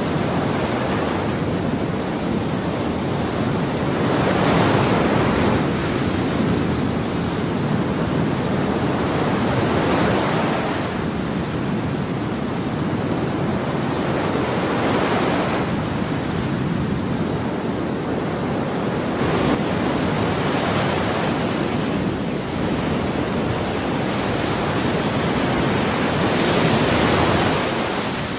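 Ocean waves breaking on a shore, a continuous rushing wash with a wave cresting every five seconds or so.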